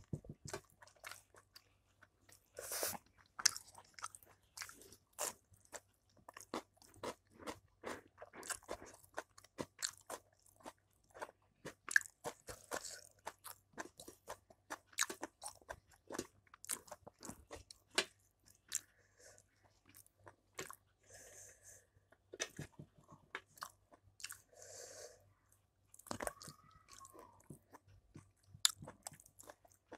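Close-up chewing and crunching of chicken chop eaten by hand: irregular wet mouth smacks and crisp crunches.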